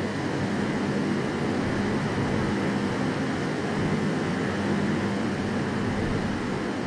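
Train running at a station platform: a steady rumble with a low, even hum underneath.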